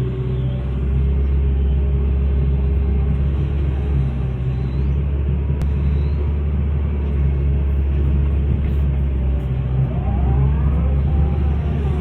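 Hitachi excavator's diesel engine running steadily with a deep hum, and a short rising whine about ten seconds in.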